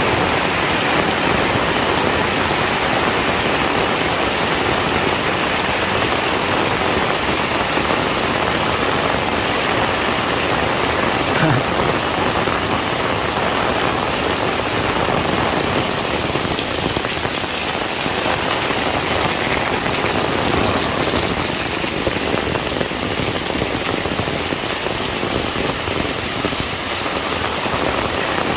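Heavy rain falling steadily, an even hiss of drops striking surfaces, with one faint brief knock about eleven seconds in.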